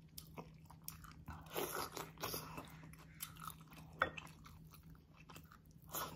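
Close-up chewing of braised beef rib meat and vegetables: soft, irregular mouth sounds, with a sharp click about four seconds in.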